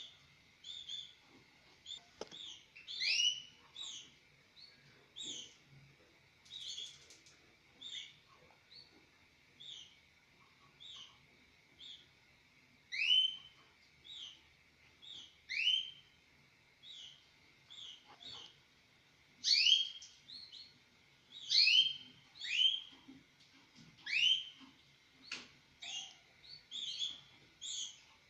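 Mosaic canaries chirping: short rising call notes repeated about once a second, some in quick pairs, over a faint steady high tone.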